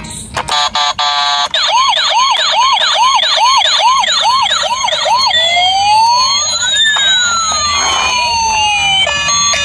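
Toy RC police car's electronic siren sound effect: a fast yelp repeating about three times a second, then a slower wail rising and falling, switching to a two-tone pattern near the end.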